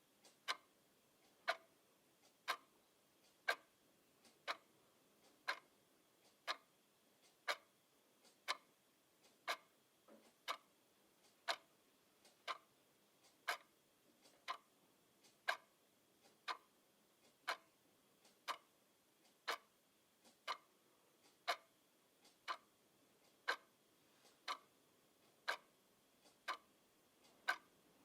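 Clock ticking steadily at about one tick a second, each tick a sharp click.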